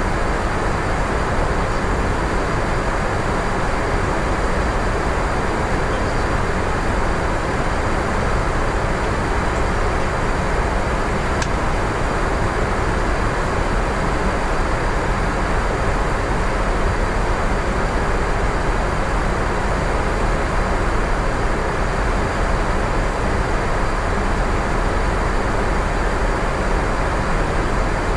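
Steady, unbroken roar of airflow and engine noise on an Airbus A350-900 flight deck in flight.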